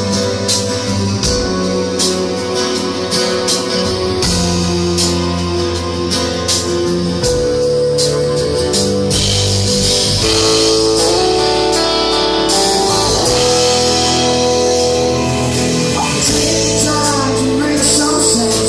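Live rock band playing a song, with strummed guitar chords over sustained notes; the sound grows fuller and brighter about ten seconds in.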